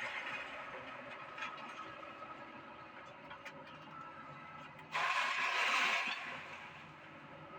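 Doosan excavator running, with a few faint clicks, then a sudden louder surge about five seconds in that lasts about a second before dropping back.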